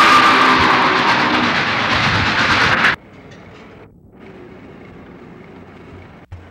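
A train passing close by: loud rushing rail noise with a few steady ringing tones. It cuts off abruptly about 3 s in, at a splice in the film soundtrack. Faint soundtrack hiss follows, with a single sharp click near the end.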